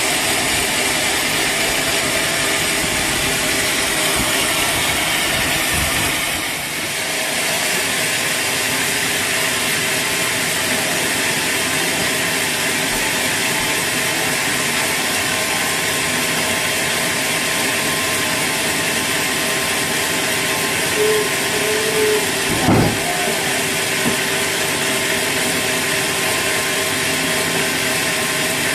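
Sawmill machinery running steadily, a constant mechanical drone with a few steady tones, briefly dropping about six seconds in. Near the end come a few short squeaks and a single knock.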